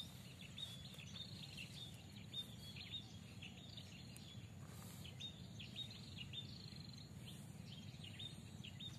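Faint outdoor ambience of small birds chirping: many short, irregular chirps over a low steady background noise.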